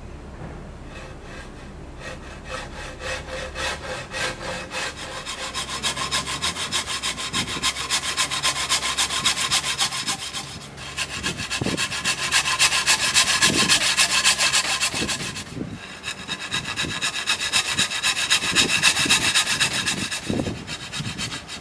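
Saw cutting into a wooden boat plank in fast, even back-and-forth strokes, starting about two seconds in and pausing briefly twice, while sections are sawn out for the shaft hole.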